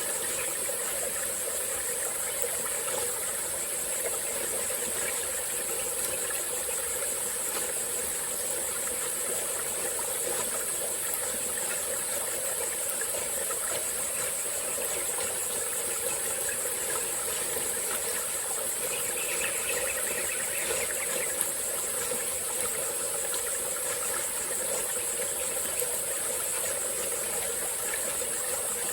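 Small stream flowing steadily over rocks, under a continuous high-pitched chorus of forest insects. Briefly, about two-thirds of the way through, a fainter mid-pitched sound joins in.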